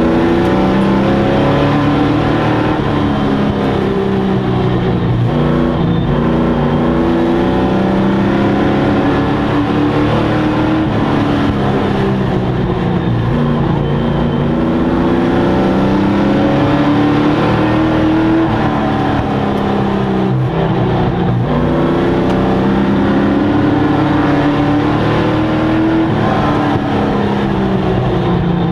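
Racing sport truck engines running at full race pace, their pitch rising and falling over and over as they accelerate and lift. Several engines overlap.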